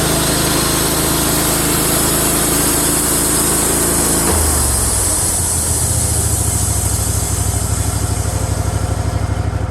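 Wood-Mizer LT15 Wide sawmill's engine running at high speed, then throttled down about four seconds in to a lower, evenly pulsing idle.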